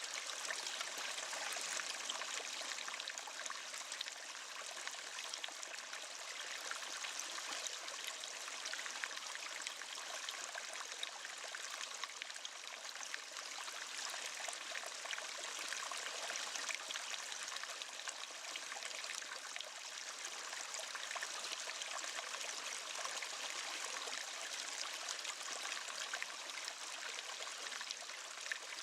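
Waterfall: water falling and splashing in a steady, unbroken hiss with little deep rumble.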